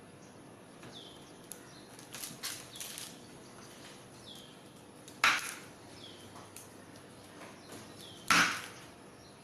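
Two loud, sharp knocks about three seconds apart, with a few fainter clicks before them, over a faint short chirp that falls in pitch and repeats every second or two.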